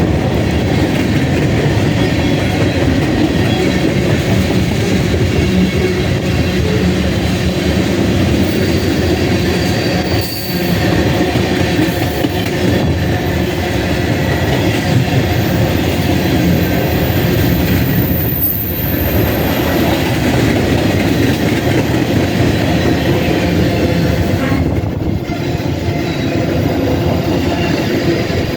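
Freight train rolling past, its wheels rumbling steadily on the rails with faint high-pitched wheel squeal. The sound dips briefly three times.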